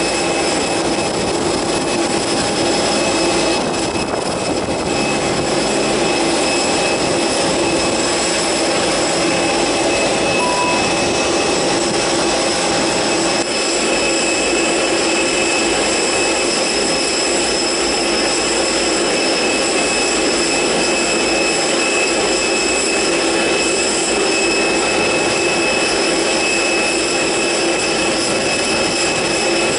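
Airbus A330's twin jet engines running steadily: a loud, even hiss with several steady whining tones on top.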